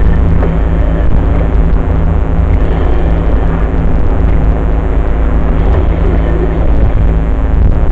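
Dirt bike engine running at a steady speed, loud, with a heavy low rumble under it.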